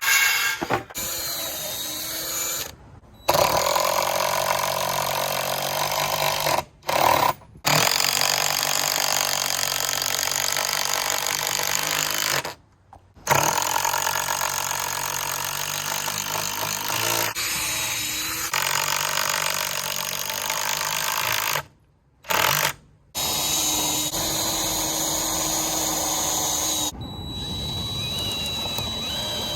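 Power tools running in a series of short cut-together stretches, each a steady motor whine lasting a few seconds, from cutting boards and driving fasteners.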